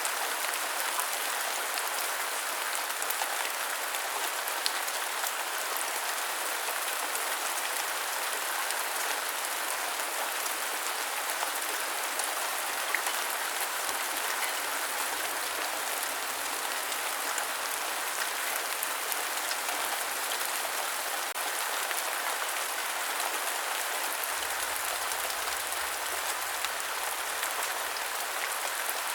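Steady rain falling: a dense, even patter of drops, with a few sharper single drop ticks standing out.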